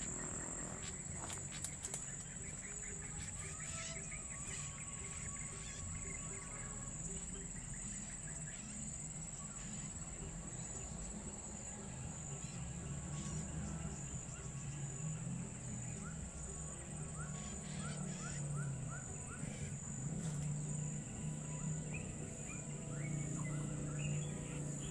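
Steady high-pitched insect drone with a low hum underneath and a quick run of short chirps about two-thirds of the way through.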